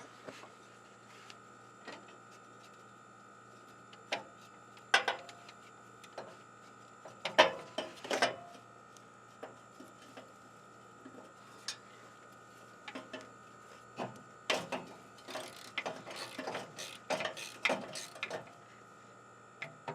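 Ratchet wrench clicking and metal tools knocking on a starter mounting bolt under a pickup truck. The clicks and clanks come scattered at first, with a few louder knocks, then a quick run of ratchet clicks in the last few seconds.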